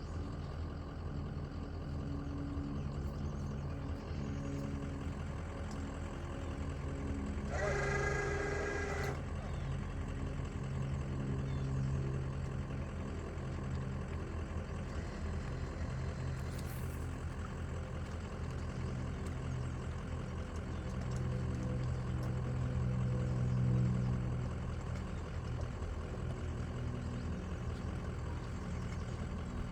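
An engine running steadily with a low hum that swells a little twice, and a brief higher pitched tone about eight seconds in.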